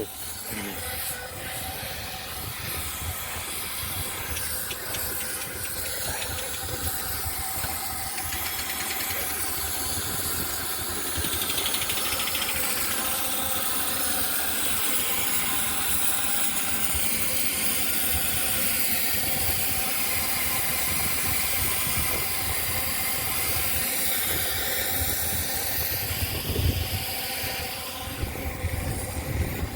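Miniature steam engine letting off steam with a steady hiss that grows a little louder about ten seconds in.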